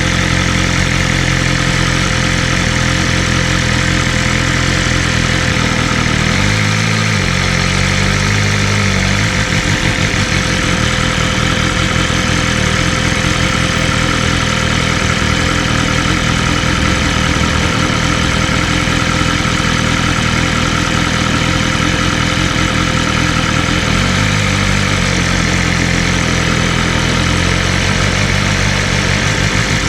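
BMW M1000RR's inline-four engine running at a steady engine speed under a steady rush of noise. Its note shifts briefly about seven seconds in and again around twenty-five seconds in.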